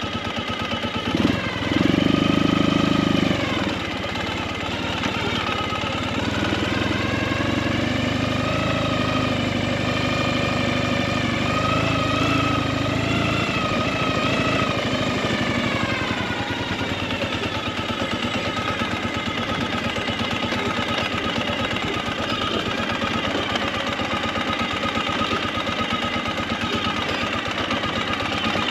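Motorcycle engine running under way, its pitch rising and falling with the throttle for the first half, then holding steadier from about fourteen seconds in.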